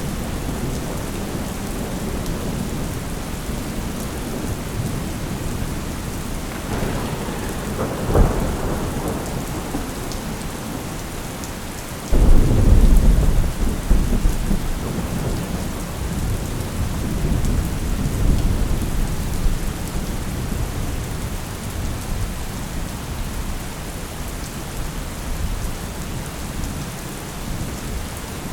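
Thunderstorm: steady rain with rolling thunder. A short crack comes about eight seconds in, and a sudden loud thunderclap about twelve seconds in rumbles on for several seconds.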